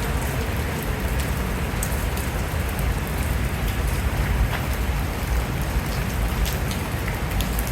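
Steady rain falling on surfaces, an even hiss with scattered drop ticks over a low rumble.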